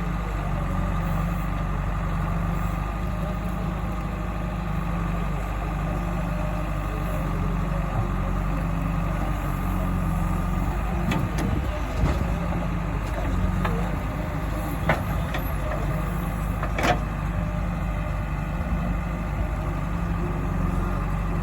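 Heavy diesel engine running steadily, with three short sharp knocks in the second half.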